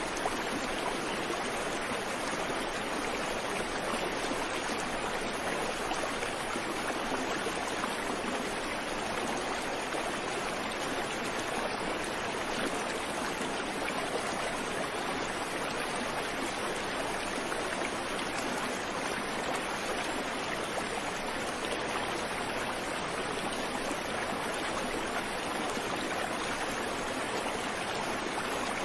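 Creek water running over rocks, a steady rushing and babbling.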